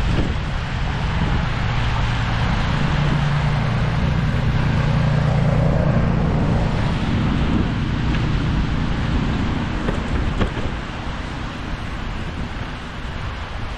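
Wind buffeting the microphone over steady parkway traffic noise. A low engine hum swells for several seconds in the middle, then fades.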